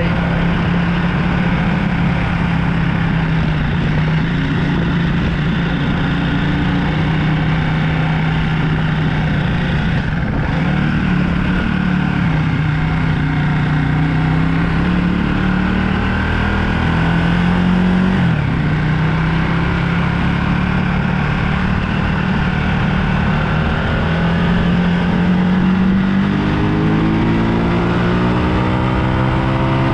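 Motorbike engine running on the ride, over a steady rush of noise. The engine note drifts up and down with the throttle and rises near the end as the bike accelerates.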